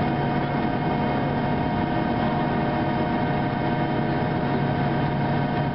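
Steady cabin drone inside a Boeing 737-700 on the ground: a constant rushing hiss with several steady tones from the aircraft's engines and air systems.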